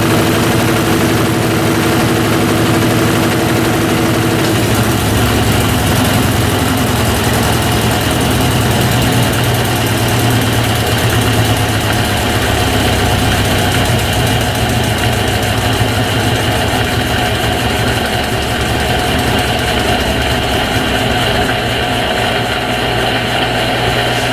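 Brastemp BWT12 top-loading washing machine draining, its drain pump and motor running with a steady hum. The tone shifts about four seconds in.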